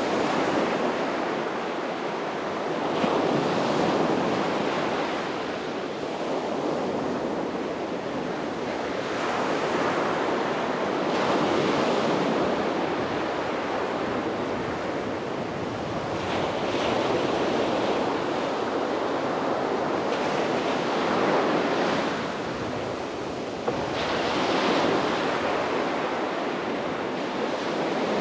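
Sea waves breaking on a beach, the surf hiss swelling and easing every few seconds, with some wind on the microphone.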